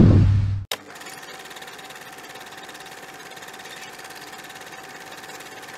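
The custom 1929 Ford pickup's Chevy small-block V8 runs loudly and cuts off suddenly under a second in. A much quieter steady, fast mechanical clatter with a faint thin whine follows.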